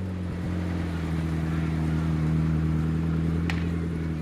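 McLaren MP4-12C's twin-turbo V8 idling steadily through its exhaust, with a short sharp click about three and a half seconds in.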